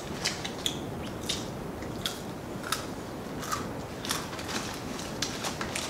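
Biting and chewing crispy fried chicken, with irregular crunches and wet mouth clicks about once or twice a second.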